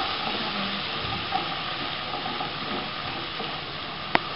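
Vegetables sizzling in a hot wok as they are stir-fried and tossed with a spatula, a steady hiss. One sharp tap near the end.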